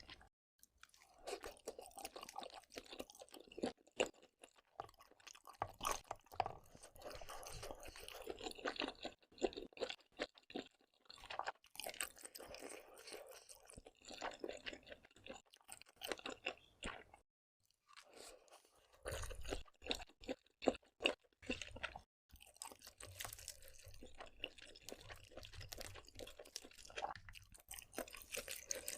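Close-miked chewing and crunching of seafood (lobster and octopus), a dense run of irregular crackles and clicks broken by brief pauses.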